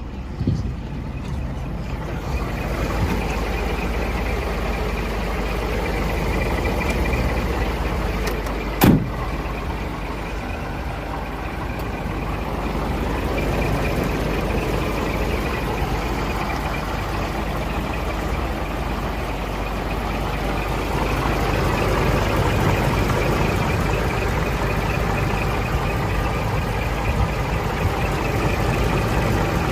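Scania R420's DC12 12-litre straight-six diesel running steadily. There is a single sharp click about nine seconds in.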